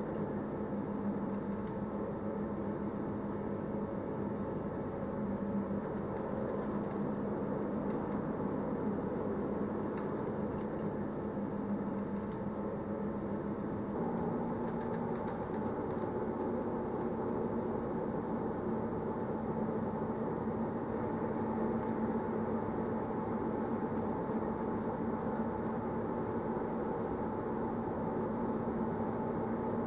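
Electric narrow-gauge train of the Bernese Oberland Railway running, heard from on board: a steady rumble of wheels on track under a motor hum. The hum steps up slightly in pitch about halfway through.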